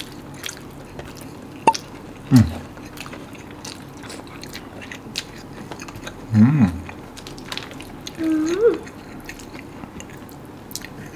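A person chewing a mouthful of rice with many small wet mouth clicks, humming a short 'mm' three times, about two, six and eight seconds in, in appreciation of the food.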